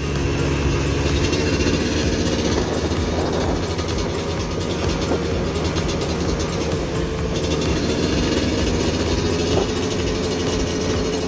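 A vehicle engine running steadily while under way, with a constant rushing noise of wind and tyres over it.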